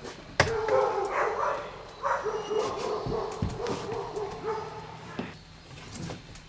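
A dog whining and yipping in a wavering series that starts with a sharp sound just under half a second in and fades out after about five seconds.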